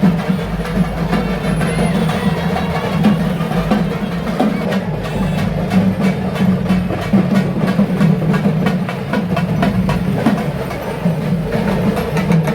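Live traditional drumming, dense and continuous, with rapid drum strokes over a steady din.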